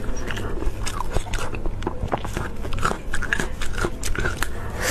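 Close-miked biting and wet chewing of soft braised sheep brain, with many small sharp mouth clicks.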